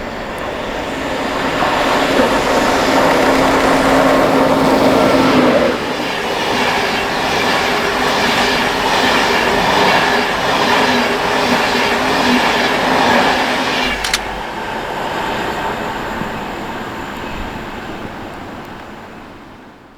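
Class 91 electric locomotive and InterCity 225 coaches passing through a station at speed. A rushing noise builds quickly, carrying a steady electric whine. It is followed by an even, repeating clatter of wheels over the rail joints. There is a sharp click about fourteen seconds in, and then the train fades away.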